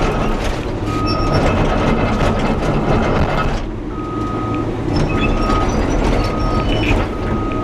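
Cat 320 hydraulic excavator running under load while it travels, its travel alarm beeping over and over and its steel tracks clanking.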